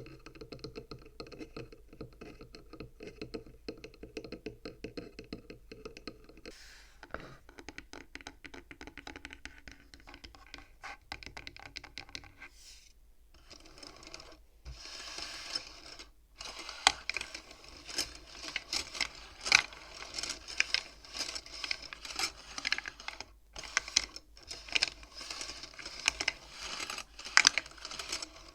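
Fast tapping on the wooden frame of a bead counting frame. About fifteen seconds in, this changes to the frame's beads being pushed and knocked along the rods, a dense clatter of sharp clicks that grows louder.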